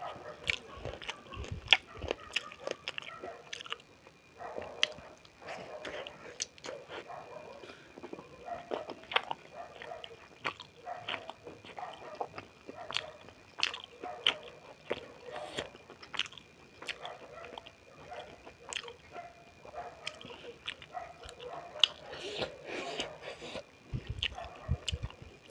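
Close-miked chewing and biting of beef momo dumplings: many wet mouth clicks and smacks in an irregular stream.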